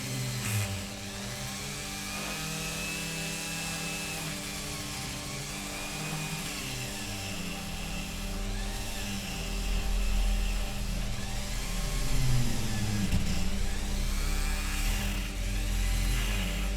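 Power tool with a wire brush, likely a rotary tool, running steadily while it scrubs old paint and grime off the diecast metal casting. Its pitch dips and rises as it is pressed on and eased off, and it gets louder about two-thirds of the way in.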